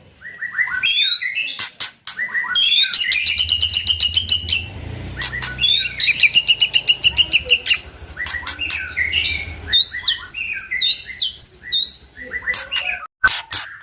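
White-rumped shama singing a varied song of whistled notes and sweeps, broken twice by long, rapid rattling trills of repeated notes, with sharp clicks in between.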